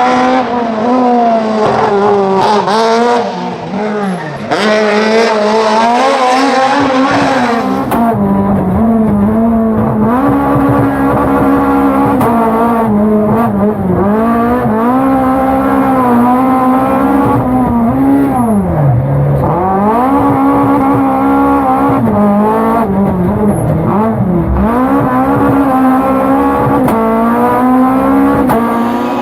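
Fiat 131 Abarth rally car's four-cylinder engine being driven hard along a stage. It revs up through the gears and comes off the throttle again and again, with one deep drop in revs about two-thirds of the way through.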